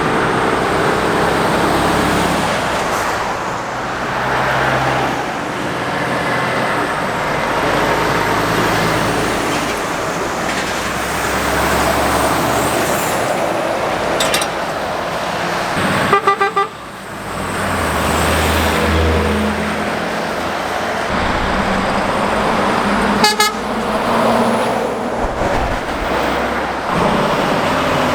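Heavy trucks and other traffic passing on a busy main road: steady tyre and engine roar with deep engine hum swelling and fading as vehicles go by. A horn gives a short toot about halfway through and another briefer one later.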